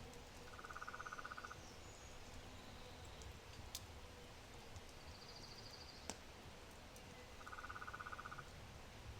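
Two identical, even, rapid trills from a calling animal, each about a second long and some seven seconds apart, with a fainter, higher trill in between. A low wood fire ticks underneath and gives two sharp pops.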